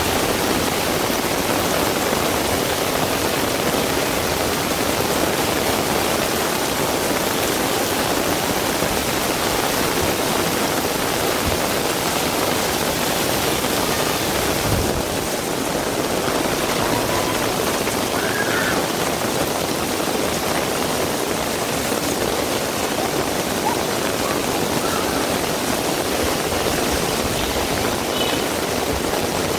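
Heavy rain pouring steadily, a dense even hiss with no let-up. About halfway through there is a brief low thump.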